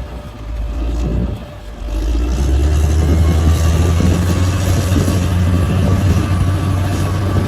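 Bulldozer's diesel engine running, dipping briefly twice in the first couple of seconds, then steady and loud.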